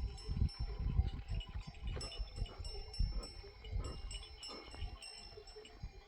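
Small bells on a grazing goat and sheep herd clinking irregularly, with a low rumble underneath that fades toward the end.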